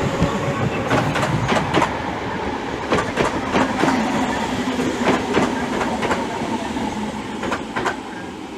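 Class 315 electric multiple unit running through the platform, its wheels clattering with many irregular clicks over rail joints and points, over a steady rumble. The noise eases off near the end.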